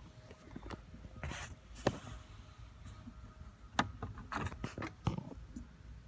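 Scattered light clicks and knocks, with sharper ones about two, four and five seconds in.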